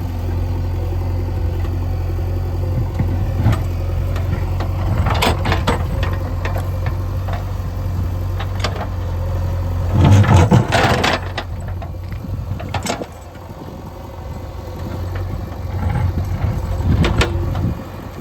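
JCB 3DX backhoe loader's diesel engine running steadily, with intermittent clanks and scraping as the bucket works stones. The loudest scraping clatter comes about ten seconds in.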